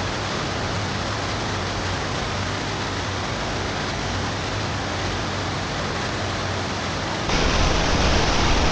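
Steady rushing of a waterfall and its water pouring down the gorge, becoming suddenly louder about seven seconds in.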